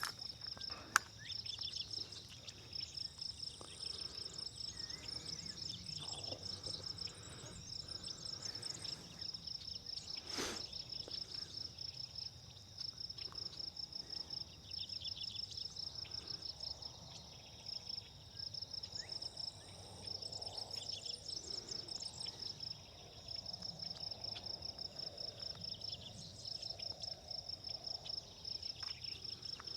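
Insects chirping outdoors: a rapid, high-pitched pulsed trill that runs in long stretches with brief pauses. A single sharp click sounds about a second in.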